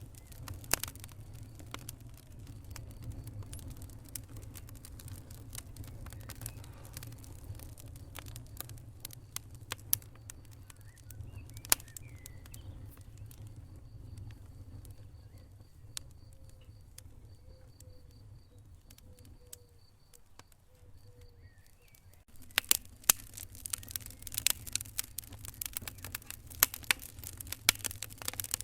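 Wood fire burning in a fireplace, crackling with scattered sharp pops over a low steady rumble; the crackling thickens and grows louder about three-quarters of the way through.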